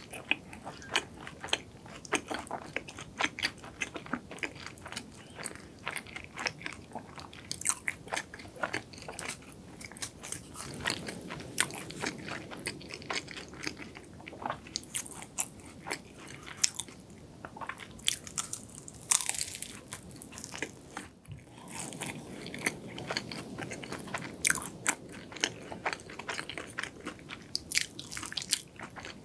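Close-miked biting and chewing of cronuts (croissant-dough doughnuts), with many small, sharp crackles from the flaky layers running right through.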